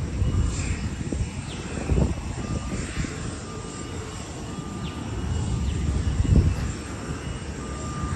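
Jet airliner engines running with a steady low rumble, with two brief low thuds about two and six seconds in. The airliner is an Airbus A350, whose Rolls-Royce Trent XWB turbofans are making the sound.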